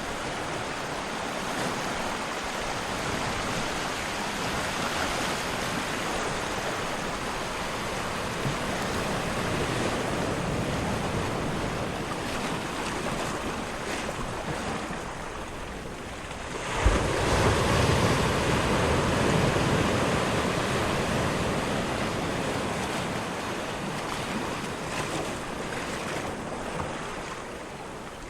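Ocean surf: a continuous wash of waves, with one wave breaking more loudly about seventeen seconds in and then slowly subsiding.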